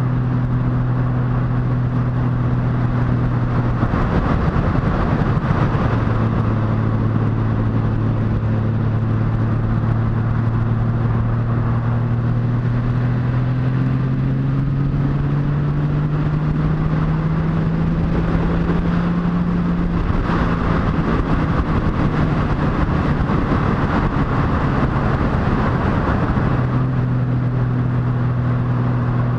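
Motorcycle engine running on the road under a steady rush of wind noise. The engine note holds steady, shifts about four seconds in, climbs slowly in pitch through the middle, then drops back and holds steady again near the end.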